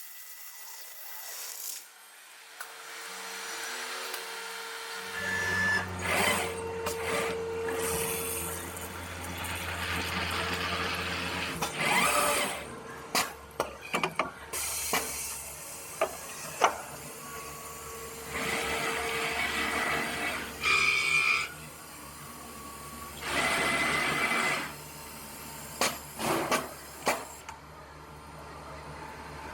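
Orbit A8 5-axis CNC stone-working machine running: a low steady motor hum with whirring bursts of a second or two as the machine works, and a few sharp clicks.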